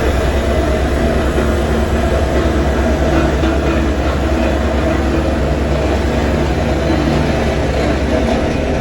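Heavy road-construction machinery running steadily: a loud, continuous low engine rumble.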